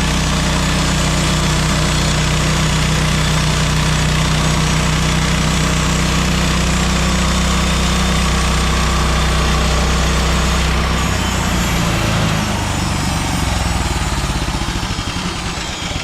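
Portable bandsaw sawmill running at full throttle, its gas engine steady under a dense hiss of the band blade cutting pine. About eleven seconds in the engine note drops and turns uneven and pulsing as the mill throttles down.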